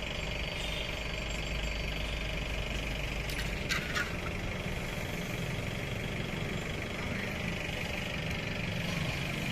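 Steady background engine hum, like idling or passing vehicles, with a few short clicks about four seconds in.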